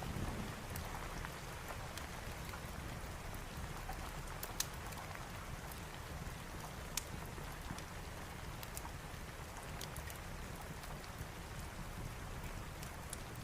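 Steady rain with a low rumble underneath, mixed with a wood fire crackling: scattered small sharp pops, two louder ones about four and a half and seven seconds in.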